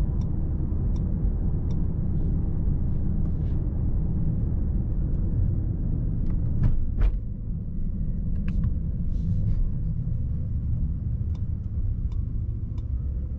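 Steady low rumble of a 2024 Mercedes-AMG S63 E Performance sedan driving, heard from inside the cabin as road and drivetrain noise, with a few faint clicks.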